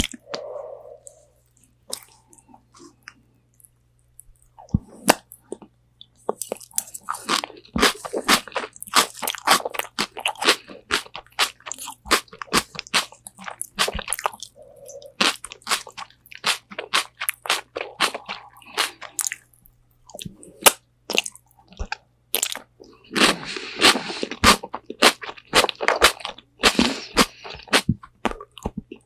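Close-miked eating of crispy Korean fried chicken wings: crunching bites and chewing in rapid crisp crackles. They come sparse for the first few seconds, then in dense runs.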